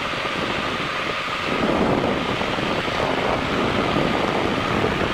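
Helicopter in flight: loud, steady engine and rotor noise with a thin steady whine above it.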